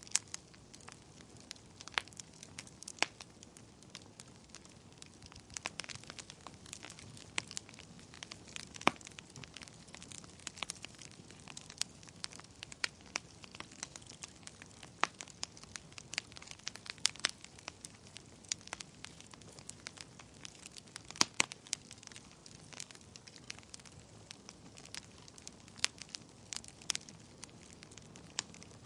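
Wood fire burning in a fireplace: irregular sharp crackles and pops over a soft, steady hiss of flames.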